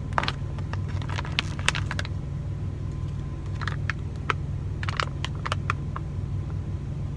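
MRE entrée pouch handled and torn open: irregular plastic crinkles and clicks, over the steady low hum of an idling truck engine.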